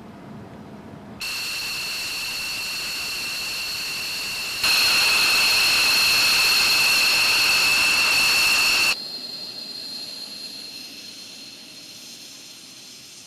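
F-16 jet engine running: a steady high whine over a rushing noise. It jumps louder abruptly about a second in and again at about four and a half seconds, then drops suddenly at about nine seconds to a fainter whine that fades away.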